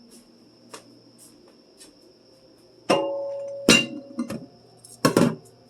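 Bottles and dishes being handled: a clink about three seconds in rings on for nearly a second, then a few sharp knocks and clatters follow.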